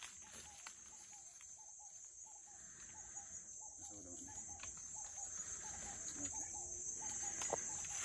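A bird calling over and over in short notes, about three a second, over a steady high-pitched drone of insects.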